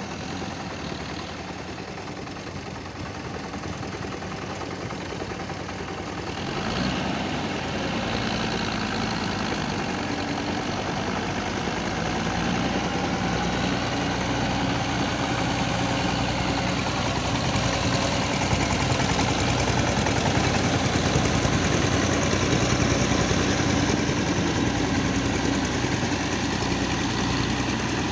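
TAFE 5900 DI tractor's direct-injection diesel engine running steadily, growing louder about six seconds in and holding there.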